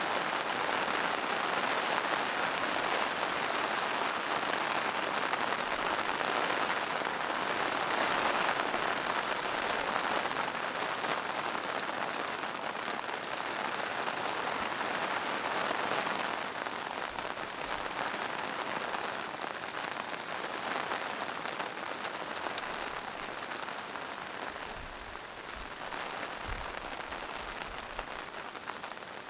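Steady rain falling on forest leaves, moss and rocks: an even patter with scattered drips, easing a little past the middle.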